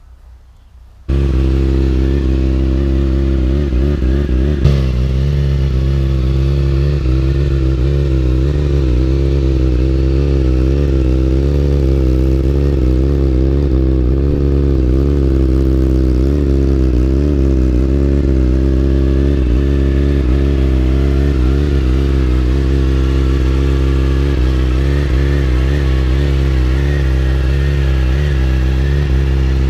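Yamaha R6 inline-four sport bike with an Akrapovic exhaust cutting in abruptly about a second in, then idling loudly and steadily, with one short sharp spike a few seconds later.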